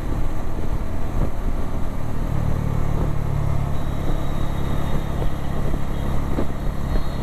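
Steady engine drone and road noise of a vehicle on the move in city traffic, its low hum growing stronger about two seconds in.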